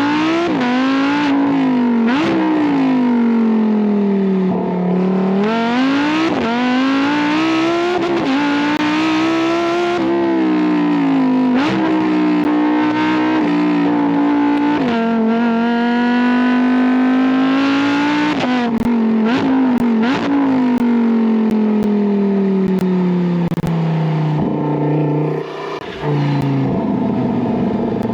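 Lamborghini Huracán Tecnica's naturally aspirated V10 engine revving hard, its note climbing and dropping sharply at the gear changes. In the second half it falls away in one long descending note as the car slows, with exhaust pops and crackles.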